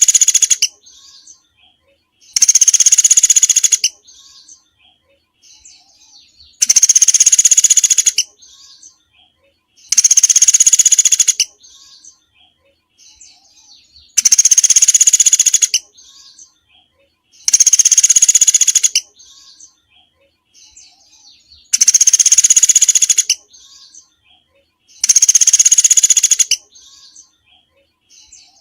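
Recorded song of a small songbird: a loud, fast, high-pitched trill about one and a half seconds long, repeated every three to four seconds, with faint twittering calls between the trills.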